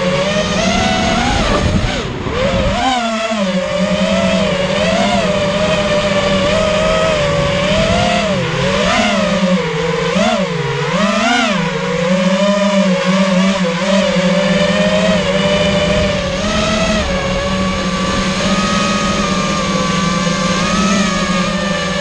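FPV racing quadcopter's electric motors whining, the pitch swooping up and down again and again as the throttle changes, then holding steadier for the last few seconds.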